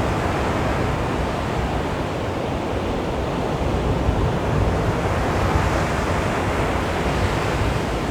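Sea waves washing onto a beach: a steady rushing surf that swells slightly and eases back, with no single sharp crash.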